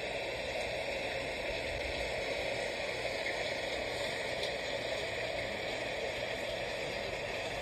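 Steady light rain falling, an even hiss with no single drops standing out.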